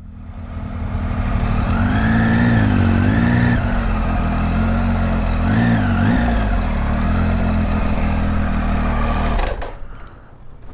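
Triumph Tiger 800's three-cylinder engine running at low speed, the revs rising and falling twice, then the sound drops away sharply near the end.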